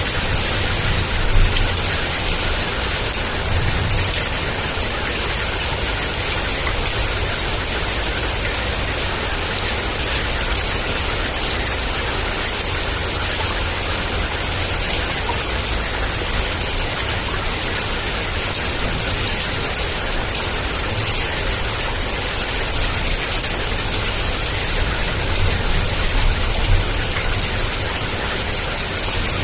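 Heavy rain pouring steadily, a dense unbroken hiss with a constant low rumble underneath.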